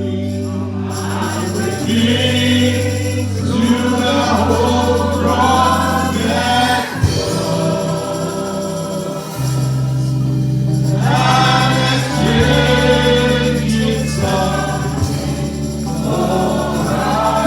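Gospel choir singing over a sustained bass line, the bass changing notes every few seconds.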